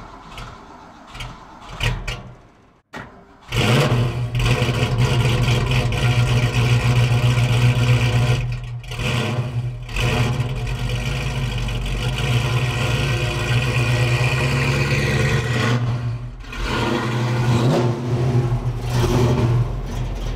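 1965 Mustang's mildly built 289 V8, breathing through long-tube headers, an X-pipe and Black Widow Venom 250 mufflers, catches about three and a half seconds in and runs at a loud, uneven cold idle. The sound sags briefly twice. This is a cold start with the choke removed, which the owner says makes it rough at first.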